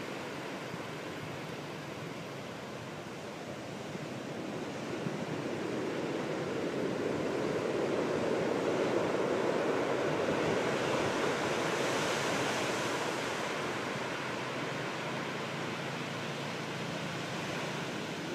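Rough surf breaking on the shore, a steady rush of waves in storm swell left by a passing typhoon. The roar builds from about four seconds in, is loudest around the middle, then eases off.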